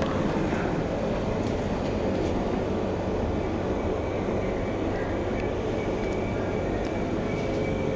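Steady rumble inside a Class 455 electric multiple unit's carriage as the train runs, with a faint high whine coming in about halfway through.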